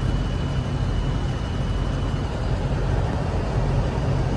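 Steady low rumble of a running vehicle engine, with a faint thin high whine over it for the first two seconds.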